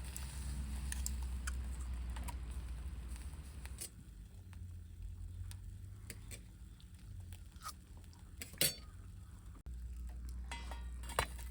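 Scattered clinks and knocks of camp cookware and utensils being handled, the loudest knock coming near the end, over a low steady rumble.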